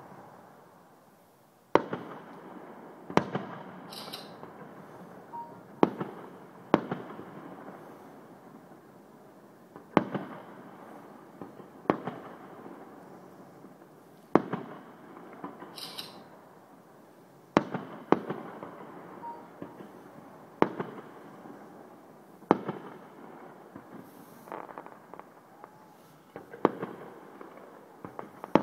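Aerial fireworks shells bursting in quick succession, a sharp bang every one to two seconds, each followed by an echoing rumble and crackle.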